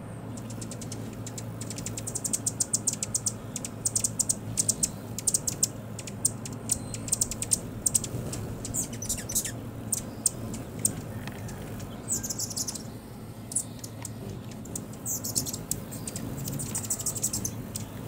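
Rapid, high-pitched bird chirps, several a second, in a long run and then two shorter bursts near the end, over the steady trickle of a small solar fountain's water stream.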